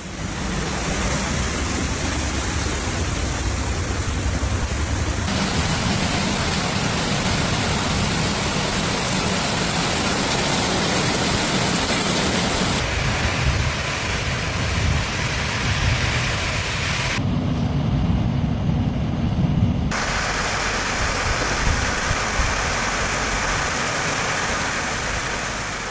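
Heavy rain and storm noise: a steady rushing that changes abruptly in character four times, about 5, 13, 17 and 20 seconds in.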